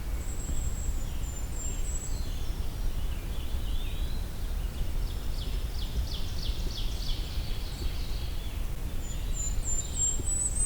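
Golden-crowned kinglet giving very high, thin notes, with its song starting near the end as a run of rising high notes. Other songbirds sing lower in between, including a quick series of repeated notes in the middle, over a steady low background rumble.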